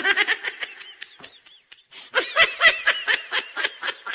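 Laughter sound effect laid over the video after a joke's punchline: a run of quick, high-pitched giggles and snickers that thins out about a second in and swells again near the halfway point.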